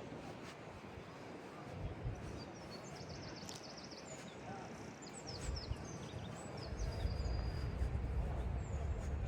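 Small songbirds chirping, with a quick high trill and a few short calls in the middle, over a steady outdoor hum. A low rumble builds about five and a half seconds in.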